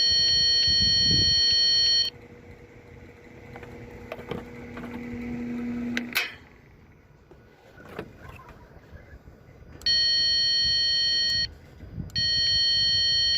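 An electronic warning buzzer sounds a steady, high, piercing tone: once for about two seconds, then again about ten seconds in and from about twelve seconds on. Between the buzzes a low hum slowly builds, then stops with a sharp click about six seconds in.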